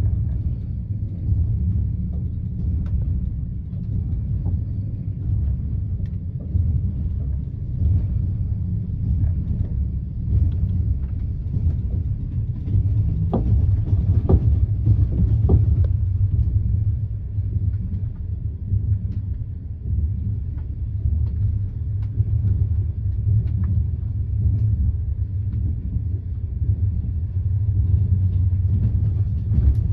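Passenger train coach running on the rails: a steady low rumble of wheels and running gear, with a few sharp clicks about halfway through.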